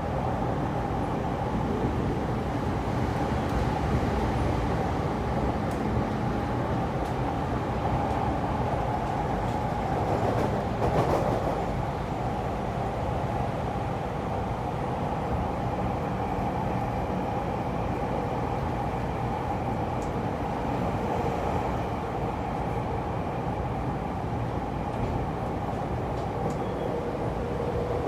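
E231-series electric train running steadily: a continuous rumble of wheels on rail with a steady whine over it, and a brief louder swell about ten seconds in.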